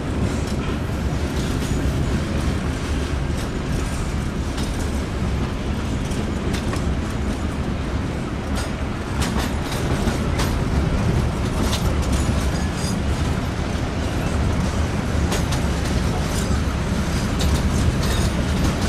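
Logawa express passenger train running, heard from inside a carriage: a steady low rumble with frequent sharp clicks and knocks from the wheels and couplings.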